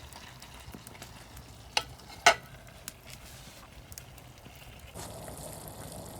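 Food sizzling in an iron frying pan over a wood fire, with sharp clicks, the loudest two about two seconds in; a louder, fuller hiss comes in about five seconds in.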